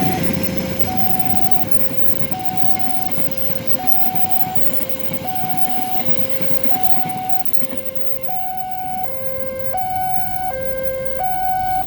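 Railway level-crossing warning alarm sounding a two-tone signal, a lower and a higher tone alternating about every 0.7 s. Under it, the rumble of the passing train fades in the first few seconds.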